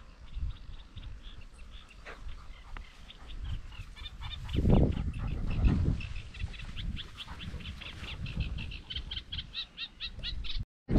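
A small bird sings a rapid chattering song of short repeated notes that come faster toward the end, over a low rumble of wind on the microphone that swells about five seconds in. The sound cuts out just before the end.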